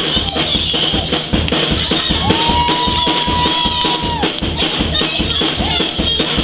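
Live music with a drum kit playing a quick, steady beat, bass drum and snare strikes packed close together. A single high note is held for about two seconds near the middle.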